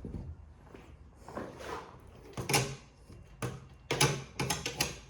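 Hard objects being handled while taking apart a machine: a string of sharp clicks and knocks, loudest about four seconds in, with a quick cluster of taps near the end.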